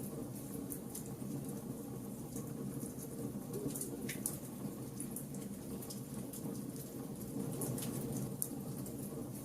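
Wood fire burning: a steady low rumble of flames with scattered sharp crackles and pops from the burning wood, one louder pop about four seconds in.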